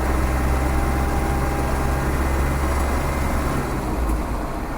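Land Rover's rebuilt 300Tdi 2.5-litre four-cylinder turbodiesel running steadily under way, heard from inside the cab, with road and tyre noise.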